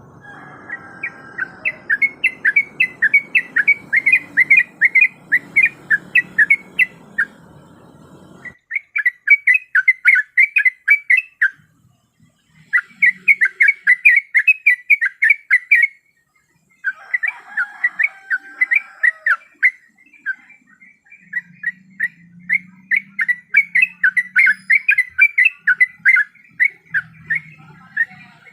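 Yellow-vented bulbul (trucuk) giving rapid series of short chirping calls in several bursts, with brief breaks between them; a lure recording of a female calling for a male. A faint background hiss stops abruptly about a third of the way in, and the sound drops out briefly past halfway.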